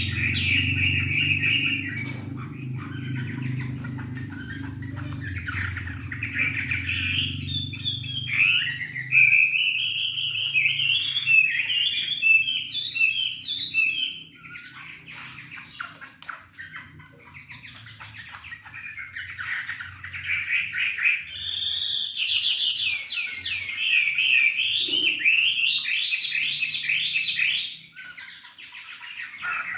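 A wambi bird singing in full, lively song: fast, varied chirps and warbled phrases that run almost without a break, louder in two long stretches. A low hum sits under the first several seconds.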